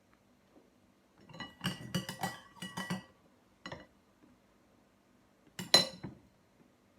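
Cutlery clinking against dishes: a quick run of ringing clinks, then a single one, then one louder clink near the end.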